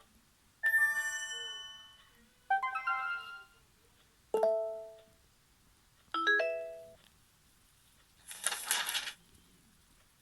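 LaMetric Time clock's notification sounds played one after another through its small speaker: four short electronic chimes, each starting sharply and dying away over about a second, then a brief burst of hiss near the end.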